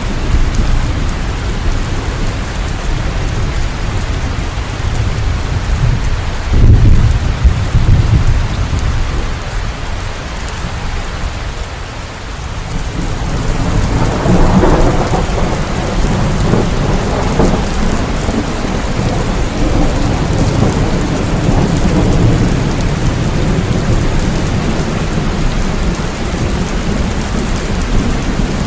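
Steady rain with rolling thunder: a loud rumble about seven seconds in, and another long rolling rumble building from about halfway through.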